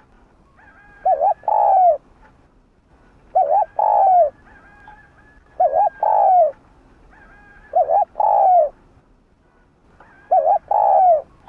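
Spotted dove cooing: five phrases about every two and a quarter seconds, each two quick short notes followed by a longer note that falls at its end.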